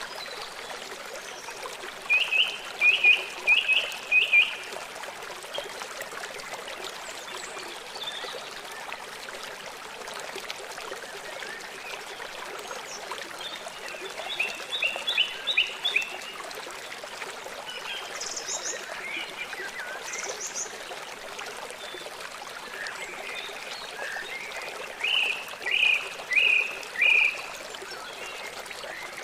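Birds chirping in short bursts of about five quick notes, three times, with a few higher calls in between, over the steady rush of running water.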